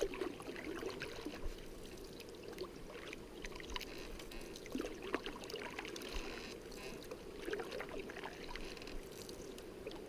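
River water running and gurgling around a moving canoe, with many small scattered splashes and light knocks.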